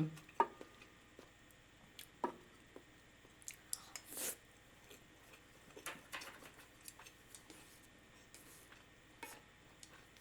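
Quiet close-miked eating of ramen: chewing with scattered small clicks of utensils, and a brief hiss about four seconds in.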